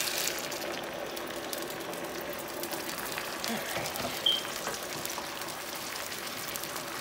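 Jerk-seasoned chicken sizzling and bubbling in a pan of hot oil with water added to make a sauce, with scattered light crackles. A brief high squeak about four seconds in.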